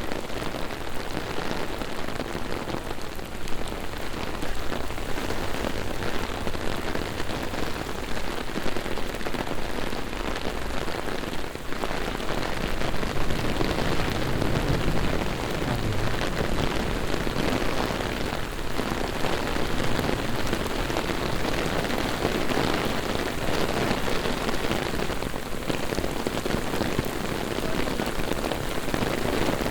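Heavy rain pouring down onto city streets: a steady, dense hiss of downpour.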